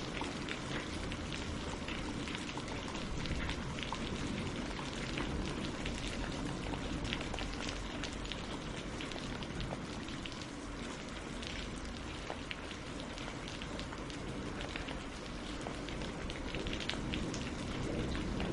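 Steady rain falling on leaves and on lake water, a dense patter with many distinct drop impacts.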